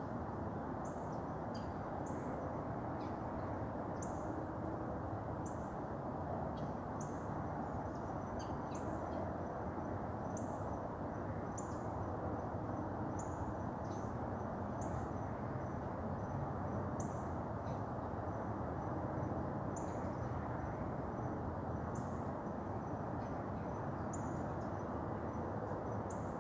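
Outdoor ambience: a steady low background rush with short, high, falling chirps repeated about once a second.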